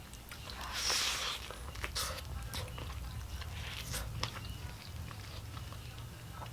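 A person chewing and biting into a fried chicken sandwich close to the microphone: scattered soft crunches and wet mouth clicks.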